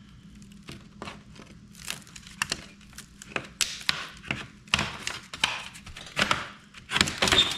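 Wide putty knife prying thin stapled aluminium sheeting off a wooden camper-door frame: an irregular run of scrapes, clicks and metallic crinkling as the staples pop out. It gets busier and louder in the second half.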